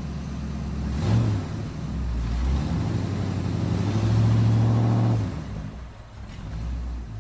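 Car engine idling, briefly revved about a second in, then revved and held higher for a couple of seconds before dropping back to idle.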